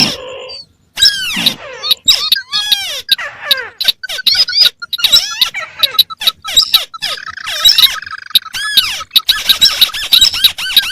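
Recorded crake lure calls: a dense, rapid run of squeaky, arching chirps, several birds' calls overlapping at once.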